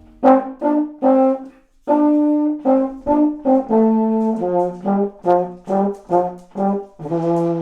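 Damaged baritone horn being play-tested: three short notes, a pause, then a run of notes stepping downward in pitch. It is just not playing that good, its valves sticking and its slides stuck.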